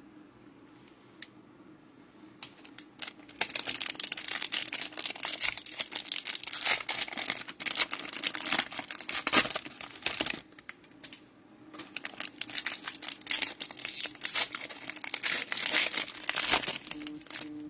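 Cellophane wrapper of a trading-card cello pack being crinkled and pulled off the cards: a few light clicks, then two long stretches of dense crackling with a short pause between them.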